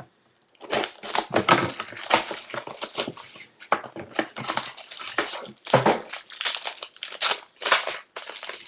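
Plastic wrapping crinkled and torn as a box of trading cards is unwrapped and opened: a long run of irregular crackling and rustling.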